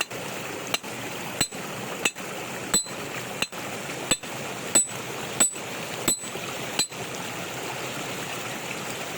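Hammer blows striking metal in a steady rhythm, about ten strikes roughly two-thirds of a second apart, each with a short metallic ring, knocking a piece loose so it can be broken out. They stop about seven seconds in, leaving a steady wash of water.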